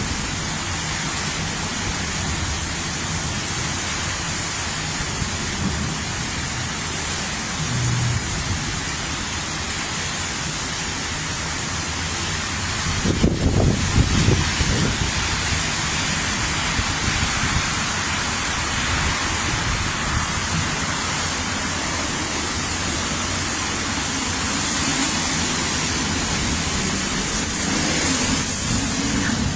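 Wind-driven rain in a severe thunderstorm, a steady rush of noise, with a louder surge about thirteen seconds in.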